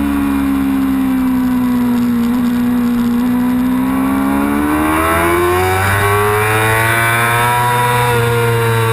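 Yamaha R6 race bike's inline-four engine at high revs, heard from onboard: the note sinks slightly, then climbs steadily from about halfway as the revs build, easing off a little at the very end.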